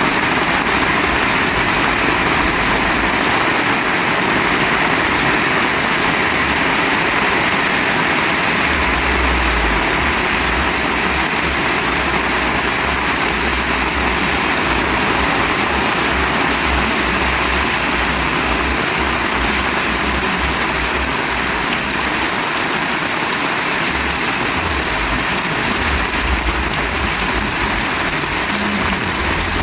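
Heavy rain falling steadily, a dense even hiss, with a low rumble of wind gusting on and off, strongest from about nine seconds in to about twenty seconds and again near the end.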